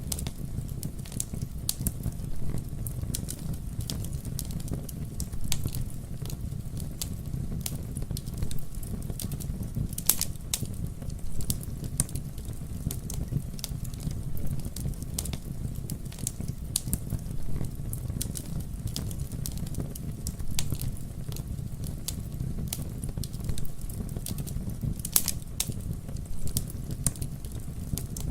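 Wood fire crackling: a steady low rumble of burning under frequent irregular sharp snaps, with a couple of louder pops about ten seconds in and again later.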